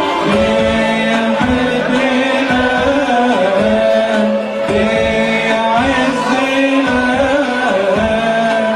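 Church choir singing an Arabic Christmas hymn medley, with a regular beat underneath the voices.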